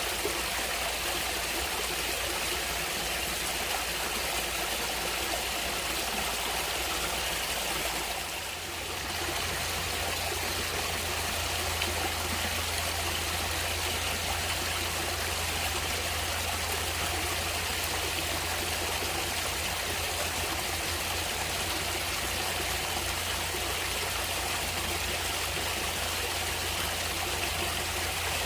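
Running water of a stream flowing steadily, with a brief dip in level a little over a quarter of the way in.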